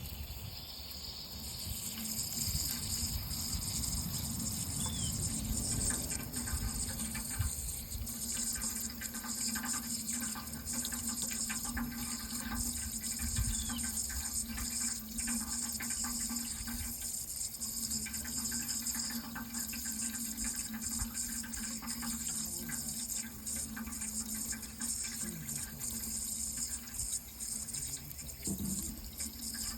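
Water running in a steady continuous flow, with a faint low hum underneath.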